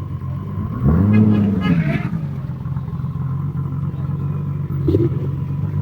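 Car engine idling with a low steady drone, revved once about a second in, its pitch rising and falling back within a second; a shorter blip of the throttle comes near the end.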